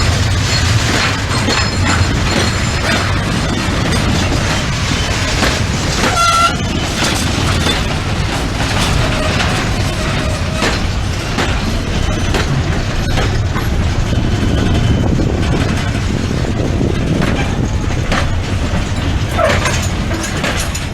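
Freight train of container wagons rolling past, its wheels rumbling and clicking steadily over the rails. There is a brief high squeal about six seconds in and a shorter one near the end.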